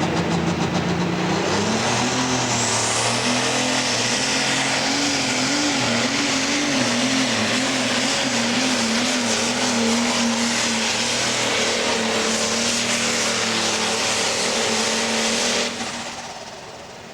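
John Deere pro stock pulling tractor's turbocharged diesel engine at full power down the track. Its pitch climbs about two seconds in, with a whine rising above it, wavers up and down through the middle, then holds steady before the engine is suddenly shut off near the end as the pull comes to a stop short of a full run.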